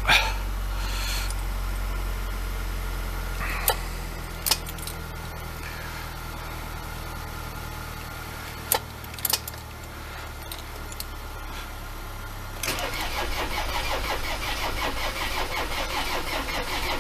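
A car engine idling steadily with a few sharp knocks, then near the end a Ford Transit 2.4 diesel's starter motor cranks the engine, which turns over without firing: air in the fuel system after the injector seals were replaced, which the owner believes needs bleeding.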